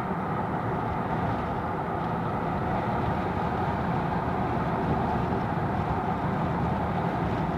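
Steady road and engine noise inside a moving car's cabin, a constant low drone.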